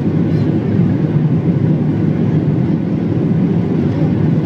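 Steady low cabin rumble inside a Boeing 737NG airliner: engine and airflow noise holding at an even level.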